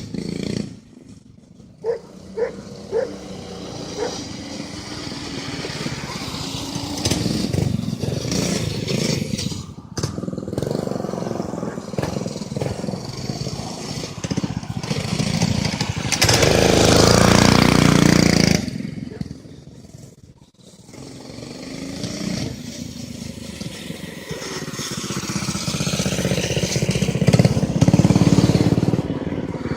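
Small engine of a homemade off-road vehicle running and revving as it rides. The sound swells and fades several times and is loudest for a couple of seconds past the middle.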